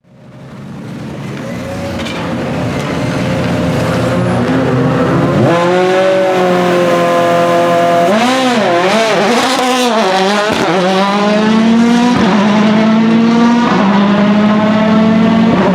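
Citroën DS3 WRC rally car's 1.6-litre turbocharged four-cylinder engine, growing louder over the first few seconds. About eight seconds in, its note swings quickly up and down several times, then holds high and climbs slowly under load.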